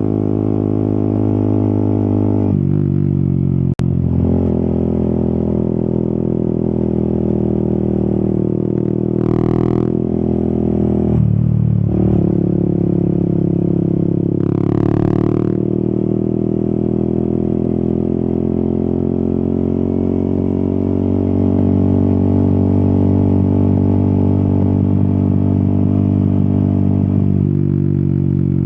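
Yamaha XSR 155's single-cylinder engine running under way on the road, its pitch shifting with throttle and gear, with a sudden change about two and a half seconds in and a short click just after. Two brief higher swells come around ten and fifteen seconds in.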